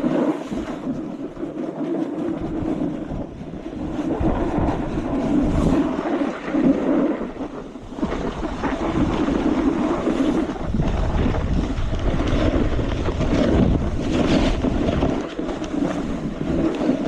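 Wind buffeting a GoPro's microphone during a snowboard descent, with the board scraping and carving over the snow; the rushing noise swells and fades as speed changes.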